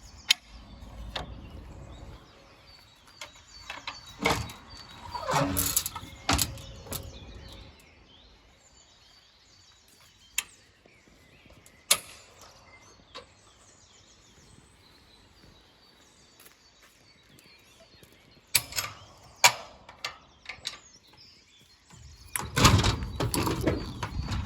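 Side panels of a dropside truck body being unlatched and lowered by hand: scattered metallic clicks and clanks from the catches and hinged sides. Bursts of knocking and rattling come about five to seven seconds in and again near the end.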